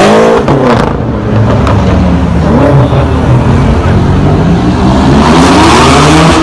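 Supercar engines on a street. One engine's note drops in the first second, then runs low and steady. About five seconds in, another engine's note climbs as the car accelerates past.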